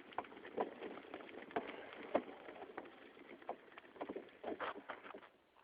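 Bicycle rattling and knocking irregularly as it rides over a bumpy sandy trail, with faint wind noise.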